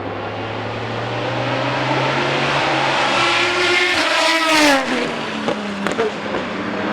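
GT race car engine passing at speed, its pitch climbing as it closes in and then dropping steeply as it goes by a little after the middle. A couple of short sharp cracks follow it, with other race engines running steadily in the background.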